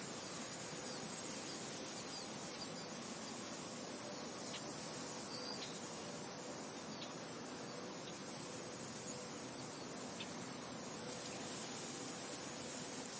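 Steady wind noise, an even hiss that barely rises or falls. A few faint, short high chirps come through it in the middle stretch.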